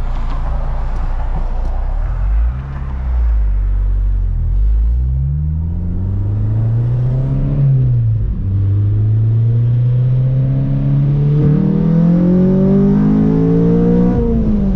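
Car engine and exhaust pulling through the gears under acceleration, its pitch climbing steadily and then falling at each upshift, about eight seconds in and again near the end, just after an exhaust leak repair.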